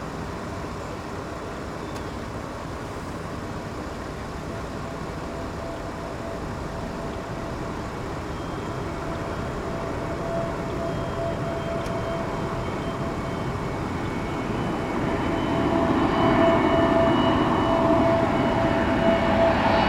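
Jet airliner on final approach, its engines a steady rumble with a rising whine that grows steadily louder as the aircraft nears.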